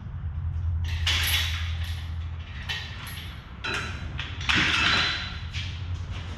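A steady low hum with a few scraping, creaking noises on top, the loudest a bit past the middle: the sound of parts being handled during shop work.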